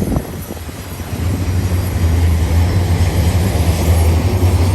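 An eastbound BNSF intermodal freight train passing close by, a steady low rumble of train running gear that swells louder about two seconds in.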